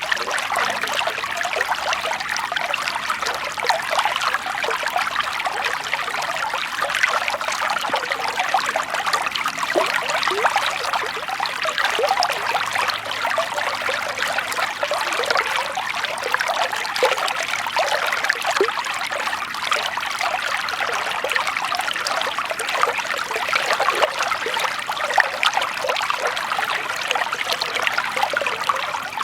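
Shallow running water trickling and babbling steadily, dense with small splashes and gurgles.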